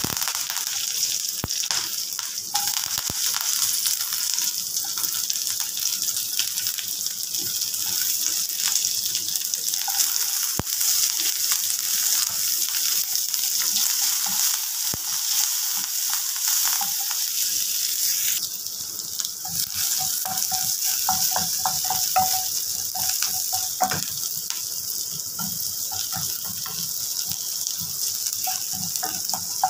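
Oil sizzling steadily in a stainless steel kadai as a tempering of mustard seeds and dal fries, then chopped shallots, green chillies and curry leaves. In the later part a metal spatula clinks and scrapes against the pan.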